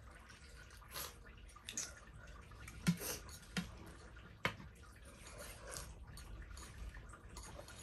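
Eating sounds close to the microphone: a few short wet slurps and clicks spaced a second or so apart, with light clinks of a utensil on a dish.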